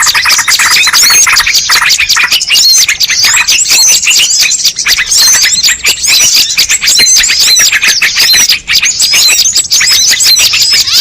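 Loud, dense chatter of many small birds calling at once, with rapid overlapping high chirps and no pause. It is bird-lure (pikat) audio, played to draw wild birds in.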